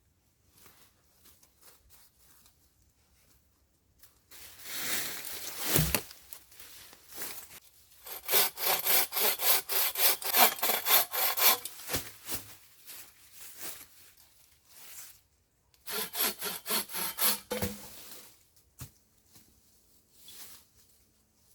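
Hand saw cutting through wood in three spells of rasping strokes, the longest a fast run of about four strokes a second.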